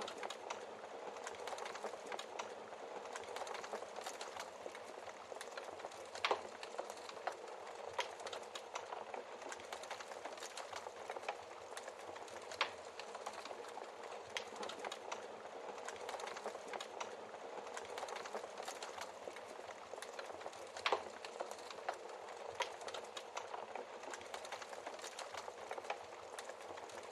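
Wood fire crackling steadily in a fireplace, with many small snaps and three louder pops from the logs.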